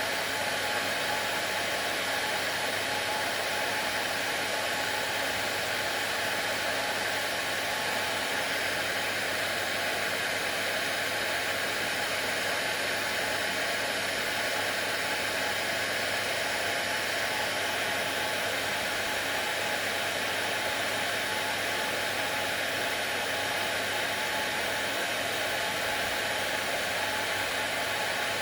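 Hair dryer running steadily, a constant whooshing rush of blown air with a faint motor hum.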